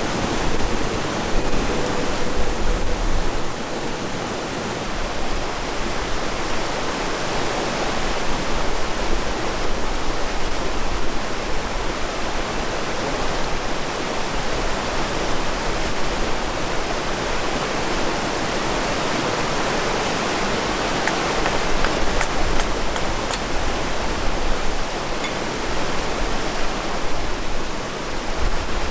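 Steady rushing noise of a river and wind on an open riverbank, with gusts rumbling low on the microphone. A few faint clicks come near the end.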